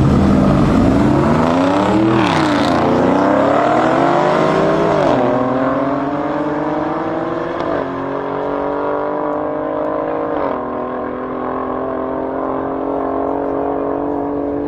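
Car engine at full throttle on a drag run, its pitch climbing and then dropping sharply with four upshifts spaced roughly two and a half to three seconds apart, then holding nearly level in a high gear.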